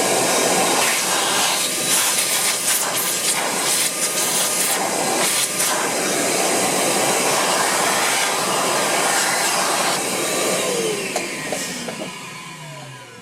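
An electric motor driving a fan, with a loud steady rush of air, switched off near the end and winding down in pitch as it slows.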